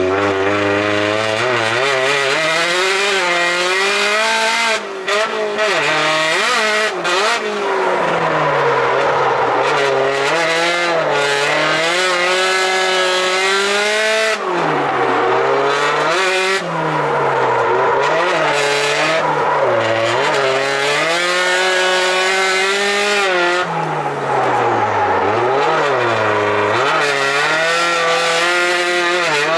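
Drift car's engine revving hard, its pitch rising and falling again and again with the throttle, with tyres squealing as the car slides.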